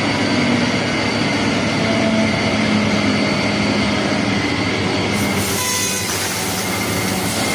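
Fiber laser cutting machine cutting 16 mm metal plate: a loud, steady hiss with a low hum and faint held tones, turning brighter about five seconds in.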